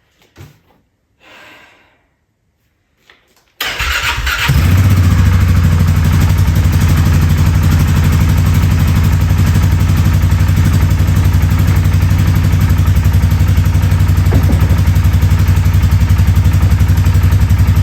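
2022 Polaris Sportsman 450 HO ATV's single-cylinder engine cranking and catching about three and a half seconds in, then running steadily. A few faint knocks come before the start.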